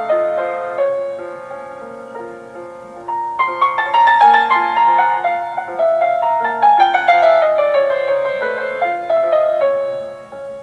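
Solo piano playing a classical piece: a gentle passage, then louder from about three seconds in, with a long run of notes descending in pitch.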